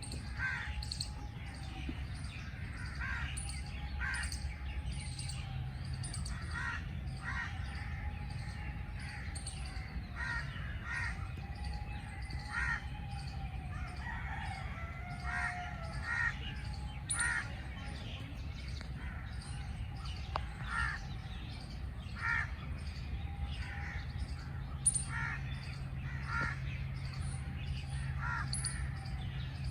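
Birds calling: a run of short, harsh calls every second or two with some chirps mixed in, over a steady low background rumble.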